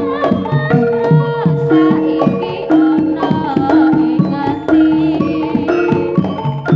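Javanese jaranan ensemble playing an instrumental passage: hand-drum (kendang) strokes drive a fast rhythm under held gamelan-style metallophone tones and a wavering melodic line.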